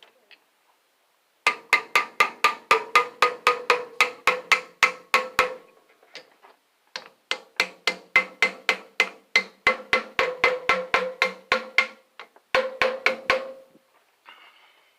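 Rapid hammer blows on the steel casing of a large electric motor being broken open for its copper, about four to five strikes a second, each with a metallic ring. The blows come in three runs: a long one, a longer one after a short pause, and a brief burst near the end.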